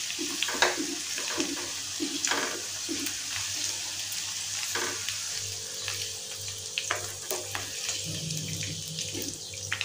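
Okra pieces sizzling in hot oil in a kadhai as a wooden spatula scrapes and pushes them out onto a steel plate. A steady hiss is broken by scattered scrapes and taps of the spatula.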